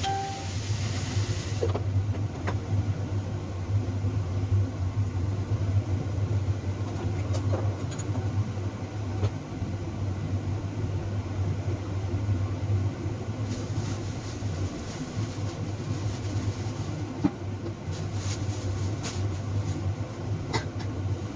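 A steady low machine hum, with a high hiss that stops about two seconds in and a few light clicks.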